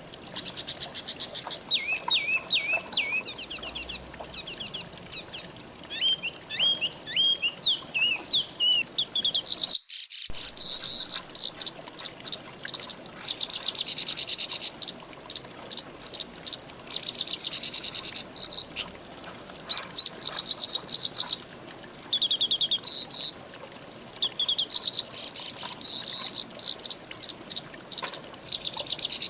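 Songbirds calling in repeated curved chirps, over a steady high hiss. After a brief break in the audio about ten seconds in, the calls give way to fast, buzzy trills.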